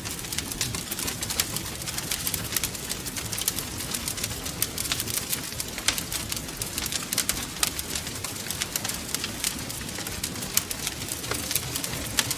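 Wood fire crackling steadily, with many small irregular pops and snaps over a low rumble of burning.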